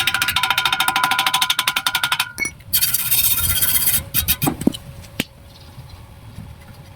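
Stick-welding arc crackling and sizzling in two runs of a couple of seconds each, then a few sharp clicks as the arc stops, after which it goes quiet about five seconds in.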